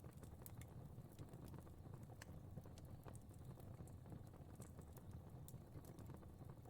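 Fire crackling faintly: scattered small pops and snaps at irregular times over a low steady rumble.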